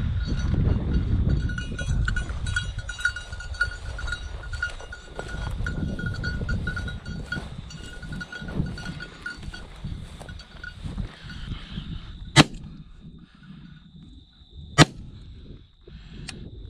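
A small bell on a hunting dog's collar tinkling rapidly as the dog runs, over wind rumble on the microphone; the bell stops about eleven seconds in. Then two shotgun shots, about two and a half seconds apart.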